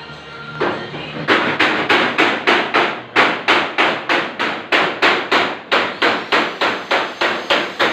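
Hammer striking the steel body panel of an old Toyota Corolla in body repair, in a steady run of blows at about three a second, starting a little over a second in.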